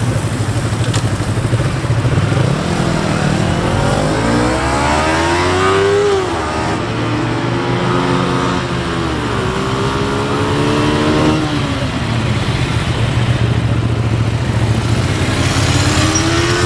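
Motorcycle engine being ridden at low speed, its pitch climbing as it accelerates and dropping as the throttle is eased, several times over.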